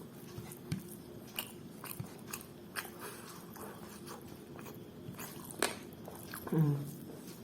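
A person chewing food close to the microphone, with scattered small wet mouth clicks. About six and a half seconds in comes a short hummed "mm" that falls in pitch.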